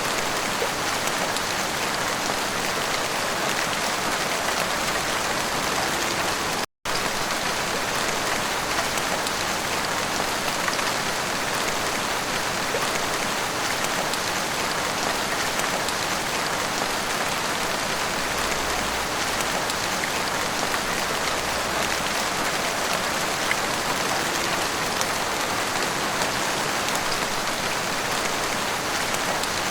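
Heavy rain pouring steadily on street and rooftops, an even dense hiss, broken by a momentary cut to silence about seven seconds in.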